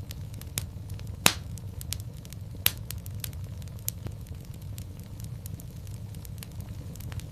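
Wood fire in a fireplace crackling: a steady low rumble of flames with scattered sharp pops, two louder snaps about a second in and near three seconds.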